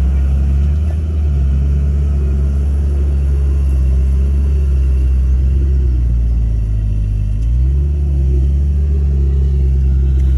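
Bulldozer's diesel engine running hard and steadily. Its pitch sags briefly about a second in and again around seven seconds, then climbs back as the engine takes and sheds load.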